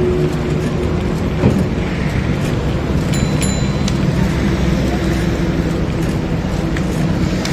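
Steady road noise heard from a moving bicycle: passing traffic and wind rushing over the microphone, with a brief faint high ring about three seconds in.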